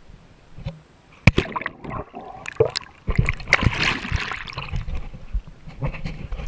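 A person jumping into the river: a loud splash about three seconds in, followed by churning, sloshing water.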